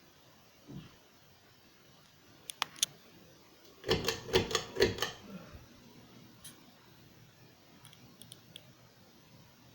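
A couple of sharp light clicks, then about a second of rapid clicking and rattling, and a few faint ticks near the end, over a faint steady background hum.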